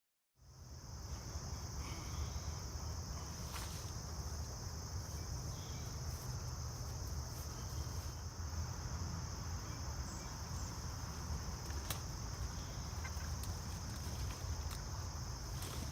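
Steady, unbroken high-pitched insect chorus, typical of crickets or katydids, over a low rumble; it begins just after the start, and a few faint clicks sound here and there.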